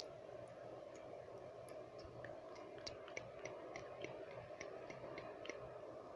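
Close-miked wet mouth sounds: scattered small tongue and lip clicks, irregular at a couple a second, over a steady white-noise hiss.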